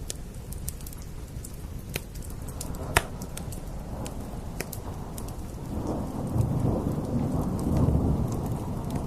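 Wood fire crackling, with sharp pops scattered through and one loud pop about three seconds in, over steady rain hiss. A low rumble swells up about six seconds in and eases off near the end.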